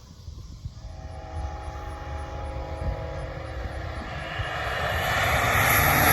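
A light propeller airplane's engine running steadily, growing louder over the last couple of seconds as the aircraft comes closer.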